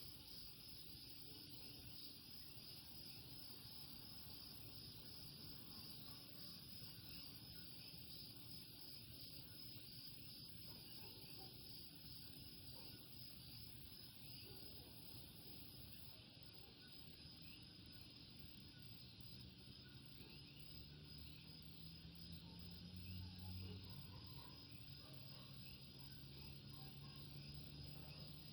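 Faint night chorus of Puerto Rican coquí frogs, many short rising chirps overlapping, over a steady high insect trill. A faint low drone rises in pitch about two-thirds of the way through.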